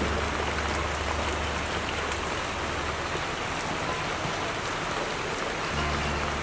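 Heavy rain falling, a steady dense hiss of drops. A low steady hum sits under it for the first two seconds or so and comes back near the end.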